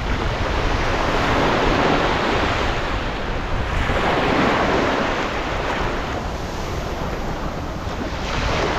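Sea waves washing, with wind buffeting the microphone. The wash swells and eases about every two to three seconds.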